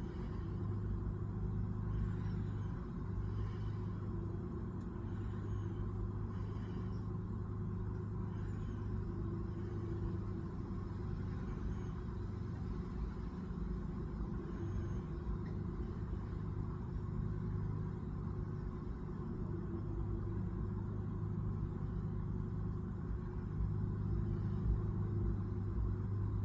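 Steady low rumble of background noise, with a few faint, short high chirps in the first half.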